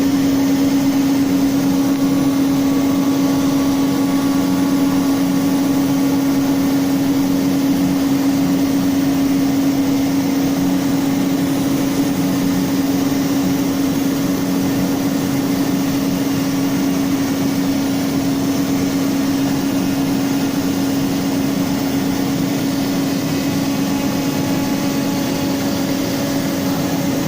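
CNC router spindle running steadily at speed as it cuts the wood sign, a constant high hum over the noise of the cutting.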